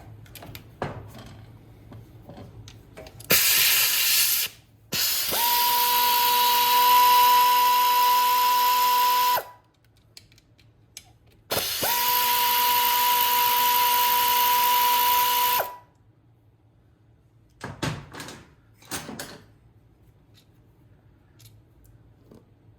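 Power drill running in three spurts, a short one and then two steady whines of about four seconds each, backing out the bolts of a GY6 150cc engine's cam chain tensioner cover. A few light metallic clicks follow near the end.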